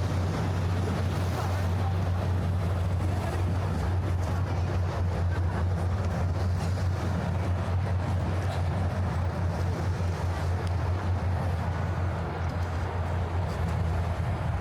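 A steady low engine hum with an even wash of wind and water noise, and no sudden events.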